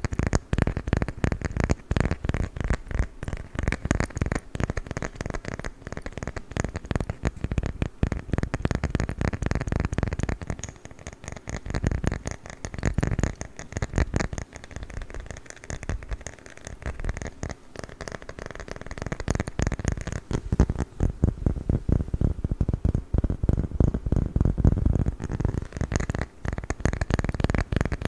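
Rapid, dense tapping and scratching on a wooden lid, coming in waves that swell and ease every few seconds.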